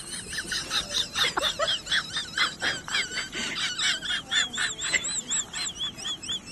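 Animals chirping: a rapid run of short, high-pitched, arching chirps, several overlapping, about three or four a second.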